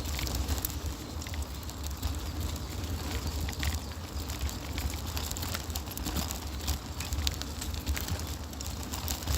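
Riding noise picked up by a phone clipped to a bicycle's handlebars: a steady low wind rumble on the microphone with scattered irregular clicks and rattles.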